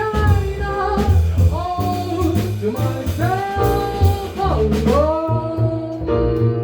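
A singer singing a jazz standard with a small band: long held vocal notes over a walking bass line and drums.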